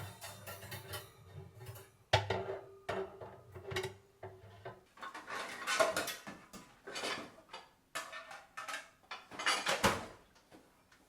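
Dishes and kitchenware clinking and clattering in a run of small knocks as they are handled and put away. Soft background music plays under the first half.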